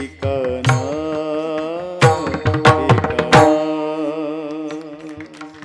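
Devotional kirtan accompaniment between sung lines: a melodic line that bends and wavers in pitch over hand-drum strokes, with a flurry of loud drum strokes in the middle.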